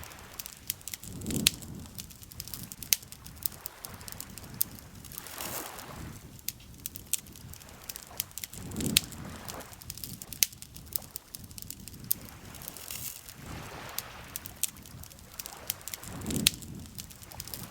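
Campfire crackling with frequent sharp pops, over small lake waves lapping in slow swells about every four seconds.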